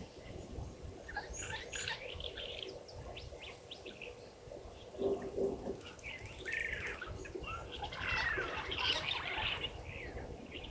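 Several wild birds chirping and calling, with short chirps early on and rising and falling whistled notes that are busiest in the second half. A short lower call comes about five seconds in, over a low rumble.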